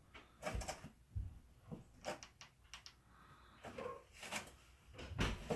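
Cardboard box and blanket being handled: scattered soft knocks, thumps and rustling, with the loudest thump near the end.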